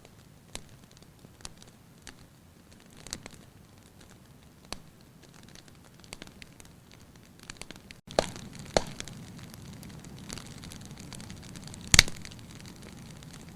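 Fireplace fire crackling, with irregular sharp pops. The crackle gets louder and denser about two-thirds of the way in, and one loud pop comes near the end.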